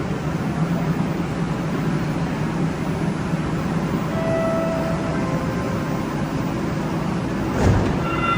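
Sound Transit Link light rail train departing a station: a steady rumble with a low hum and a few brief steady electric tones, and a single thump near the end.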